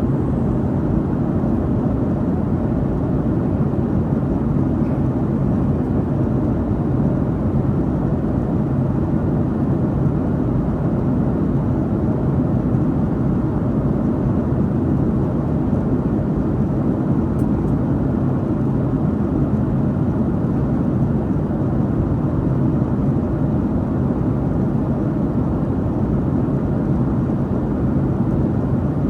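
Steady cabin drone of a Boeing 737-800 airliner in flight: constant engine and airflow noise, heaviest in the low range, with no change in pitch or level.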